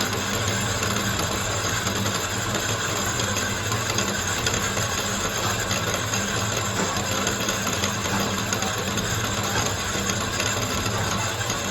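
Workshop machinery running steadily: a continuous low hum under a dense, even noise, with no separate strikes.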